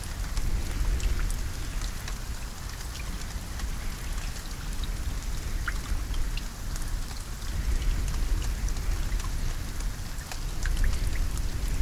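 Steady rain falling, a dense patter of many small drop ticks over a continuous hiss, with a deep low rumble underneath that swells slightly now and then.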